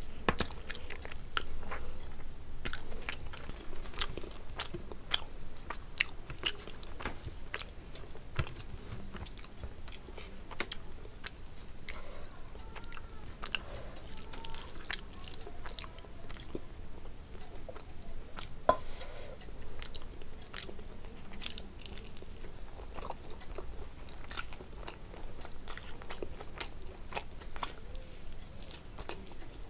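Close-miked eating of rice, curry and meat by hand: steady chewing with frequent wet mouth clicks and lip smacks. The clicks thin out for a few seconds in the middle and come thick again near the end.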